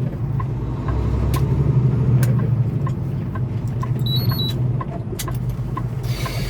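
Semi-truck engine running, heard from inside the cab as a steady low rumble, with a regular light tick about twice a second and a few sharp clicks. A short electronic beep that steps up and back down sounds about four seconds in.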